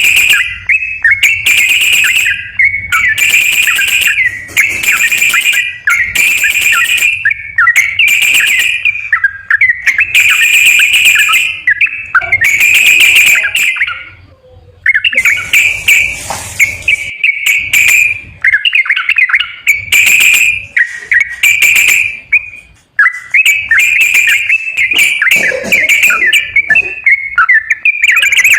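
Yellow-vented bulbul song, played as a lure to set off a caged bulbul that won't sing: loud, bubbly whistled phrases about a second long, repeated with short pauses between them.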